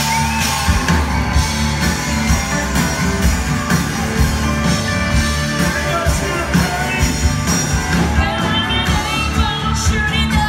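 Live band playing a loud country-rock song with a steady drum beat, electric instruments and a lead singer's voice.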